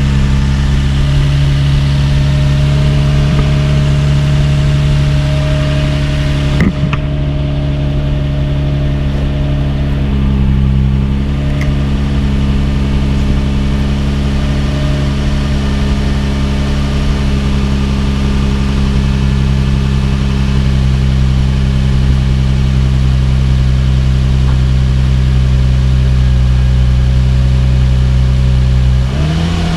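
Nissan VQ-series V6 idling steadily through a titanium cat-back exhaust with a quiet, low tone. Near the end the revs rise briefly.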